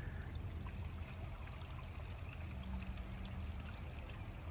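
Forest stream flowing over rocks, a steady, even rush of running water.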